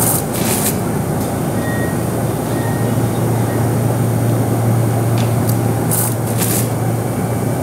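Kintetsu limited-express train standing at the platform, its equipment giving a steady low hum that swells midway, with short high hisses about half a second in and again around six seconds in.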